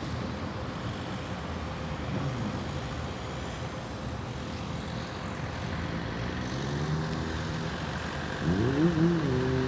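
A steady low rumble of road traffic. Near the end a motor vehicle's engine revs up loudly, its pitch rising and falling as it changes speed.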